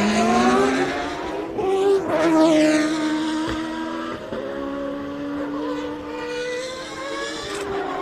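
Formula One race car engines at high revs, the pitch climbing at first. About two seconds in, a car sweeps past, then the engine note holds steady.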